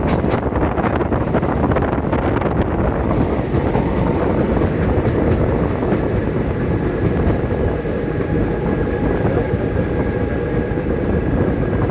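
Passenger train running along the track, a loud steady rumble of wheels on rails with clicks in the first few seconds and a faint thin squeal of the wheels later on.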